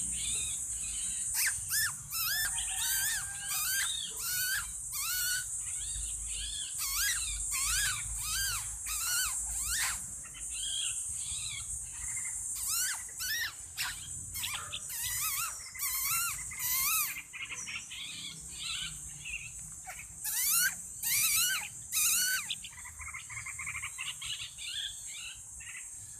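Small bird chirping and singing in many short, rising-and-falling notes, now in quick runs, now pausing. A steady high insect drone, like crickets, runs underneath.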